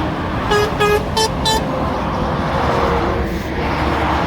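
Volvo lorry's horn giving four short toots in quick succession, the last two slightly higher, over steady motorway traffic noise.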